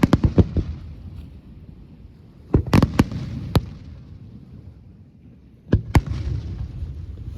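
Fireworks display: three volleys of shell bursts, at the start, about two and a half seconds in and nearly six seconds in, each a quick run of sharp bangs followed by a rumbling echo.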